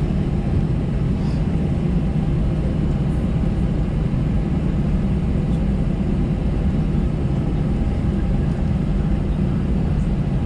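Steady low rumble and engine hum inside the cabin of an Airbus A320-214 taxiing, its CFM56 engines at low taxi thrust.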